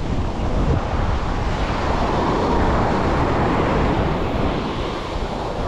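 Sea waves washing up the beach, the surf swelling about two seconds in and easing off again, with wind buffeting the microphone.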